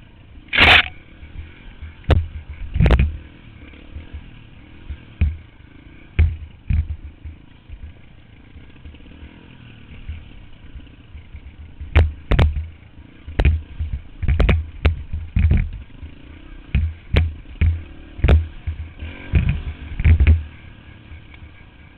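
A dirt bike running, with many loud, sharp thumps and knocks, coming thickest in the second half.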